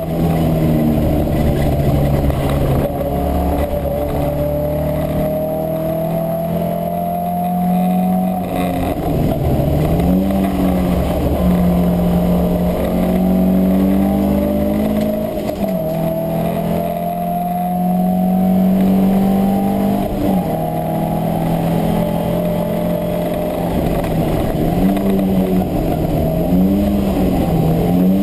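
Classic race car's engine running hard under load, heard from inside the cabin: its pitch climbs slowly as it pulls through each gear, then drops back several times for gear changes and braking into corners.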